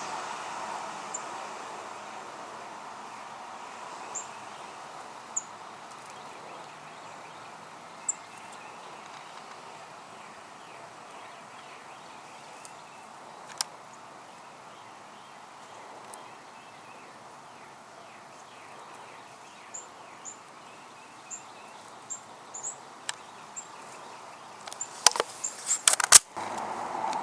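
Outdoor ambience with short, very high-pitched bird chirps every second or two. A burst of sharp clicks and knocks comes near the end.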